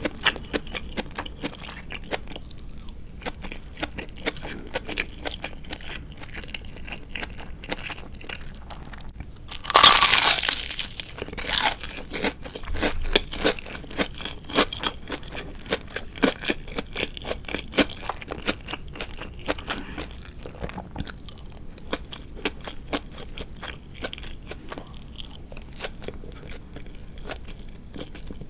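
Close-miked chewing and crunching of crispy deep-fried marinated chicken (tatsuta-age), a steady run of small crunches, with one much louder crunch about ten seconds in and a smaller one just after.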